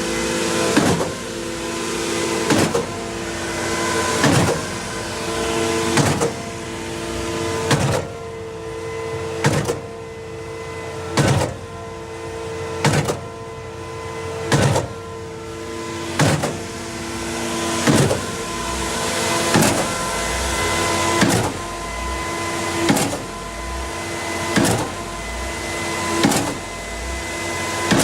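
Junjin concrete pump on a Scania truck pumping, with a sharp clunk about every 1.7 seconds as the pump changes stroke and a hiss rising between clunks over a steady motor hum.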